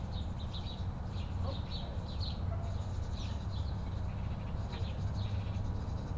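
Birds chirping in short, high calls repeated many times, over a steady low rumble.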